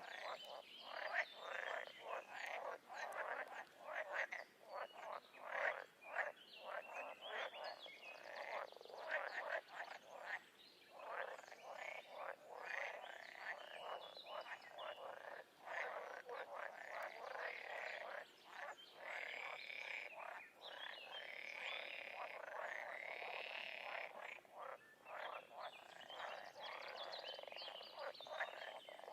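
A chorus of frogs or toads croaking, many calls overlapping in rapid pulsed trills, with some longer drawn-out calls in the second half.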